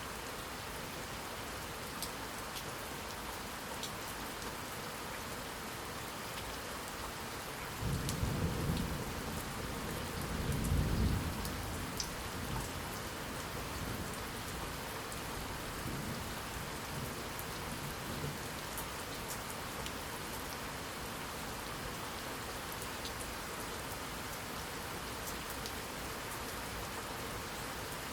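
Steady rain falling and pattering, with a peal of thunder rumbling low from about eight seconds in, peaking a few seconds later and trailing off in fainter rumbles.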